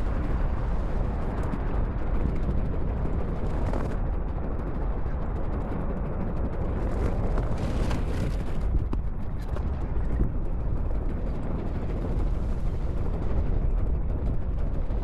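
Wind buffeting the microphone of an inline skater moving at speed: a steady low rumbling rush.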